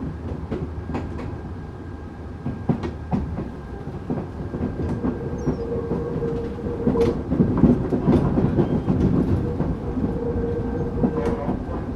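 Tokyu 8500 series electric train running, heard from inside the car: wheels clacking over rail joints, with a steady whine under the running noise. It grows louder about halfway through.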